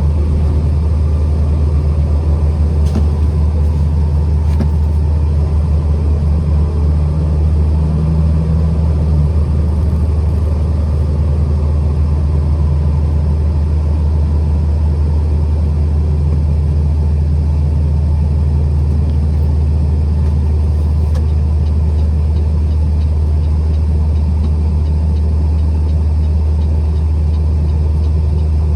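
Truck engine and road noise while driving, a steady low drone with no change in pitch.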